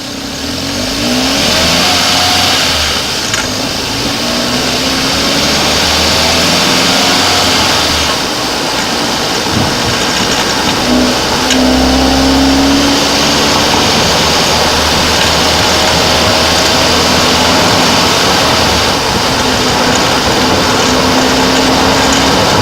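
Hyundai i30 engine running, its pitch rising and falling over and over as the revs change, under a steady rushing noise.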